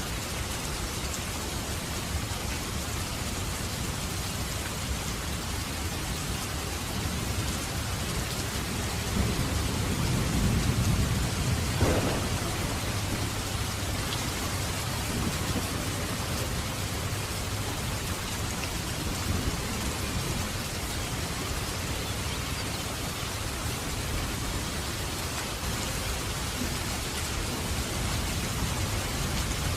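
Heavy rain falling steadily, a dense even hiss of raindrops. About ten seconds in, a low rumble swells, peaks with a sharper crack near twelve seconds, then fades back under the rain.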